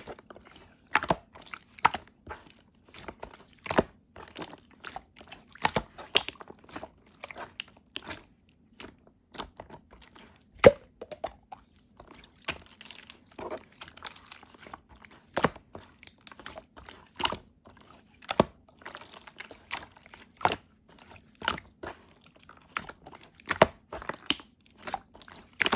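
Close, crisp crunching sounds coming irregularly, roughly one or two a second, over a faint steady hum.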